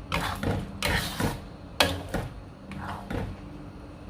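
Spatula scraping and knocking against the pan as a thick chili paste is stirred while it fries, in a run of irregular scrapes.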